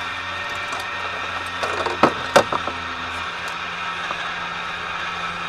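Steady cockpit drone of a Cessna 150 in flight, its Continental O-200 four-cylinder engine and propeller running evenly with the airflow. About two seconds in, two sharp knocks sound less than half a second apart.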